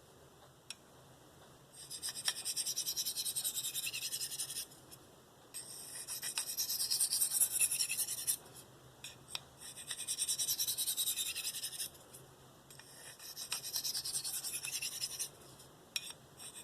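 S30V steel knife edge stroked across a Spyderco 302M medium ceramic bench stone with light pressure: four runs of quick, hissy scraping strokes with short pauses between them. These are burr-reduction passes, alternating sides to weaken the burr and break it off.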